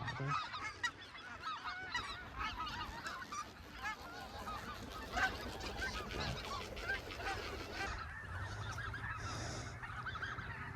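A large number of geese calling at once: a dense, continuous chorus of many overlapping honks.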